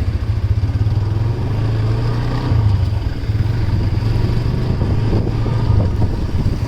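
Motorcycle engine running steadily under way, a constant low hum.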